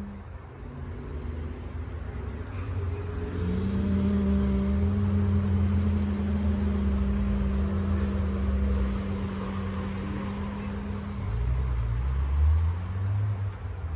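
A woman humming a long, steady low note that wavers briefly near the end, over a low steady rumble. Short high chirps sound now and then.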